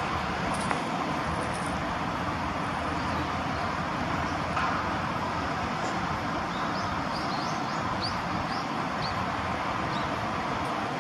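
Steady outdoor rushing background noise, with a small bird giving a quick run of short, high chirps about two-thirds of the way through.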